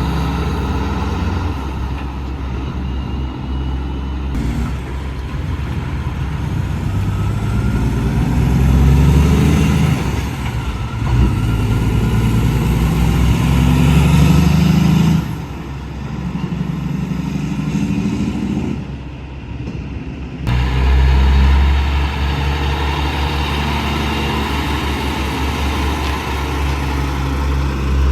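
Heavy truck diesel engines running, with the engine note climbing in pitch in the middle as a truck accelerates, and the sound changing abruptly a few times.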